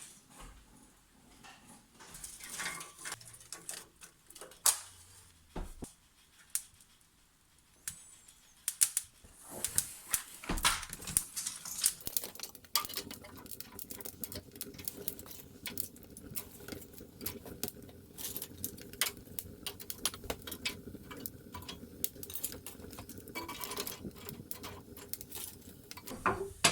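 Wood fire crackling and popping inside a salamandra wood-burning stove: many irregular sharp cracks, thickening from about a third of the way in, over a steady low hum that starts about halfway.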